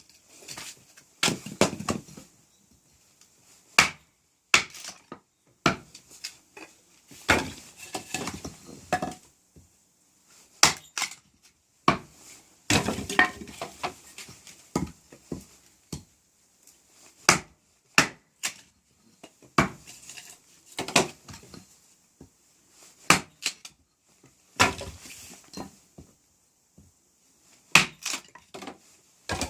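Small hatchet tapped into small pieces of firewood: irregular sharp wooden knocks every second or two, some followed by a brief crackle as the wood splits apart.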